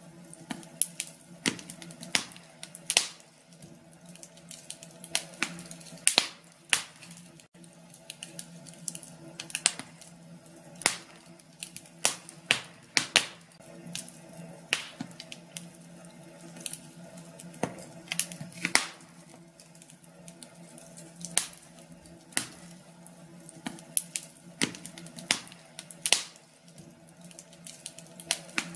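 Wood fire crackling in a fireplace: irregular sharp pops and snaps, some louder than others, over a faint steady low hum.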